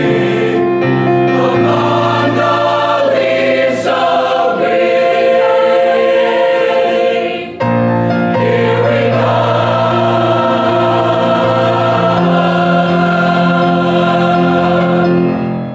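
A choir singing a Christmas song in held chords, with a brief break about halfway through. The song ends on a final chord near the end.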